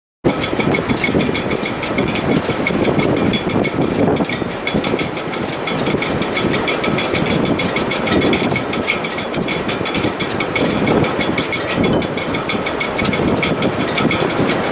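Gale-force wind in a sailboat's shrouds (standing rigging): a steady rushing that swells and eases, with faint steady whistling tones above it and a fast, even rattle running through.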